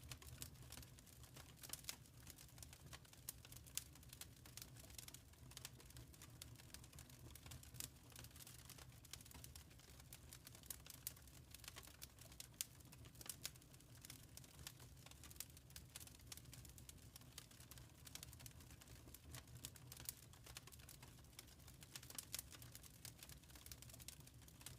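Wood fire crackling: a steady stream of small, irregular pops and snaps over a low, steady rumble.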